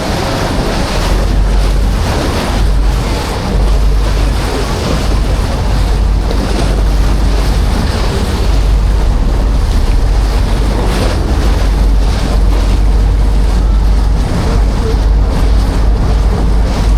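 Passenger ferry under way: the rush of sea water along the hull and the engine's hum, with wind buffeting the microphone in a heavy low rumble.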